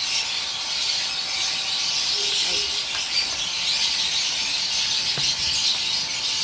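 A steady high-pitched hiss, with a couple of faint brief knocks midway.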